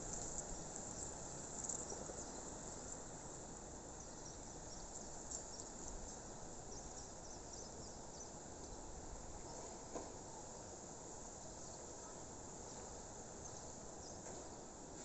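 Crickets chirping in a steady, dense, high-pitched chorus over a low, even outdoor background hiss.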